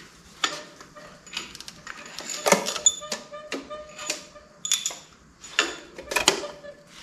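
Metal clinks and clanks, several of them ringing briefly, as the loosened cylinder head bolts are drawn out of a 6.0-litre LS engine block and set down. The loudest clanks come about two and a half and six seconds in.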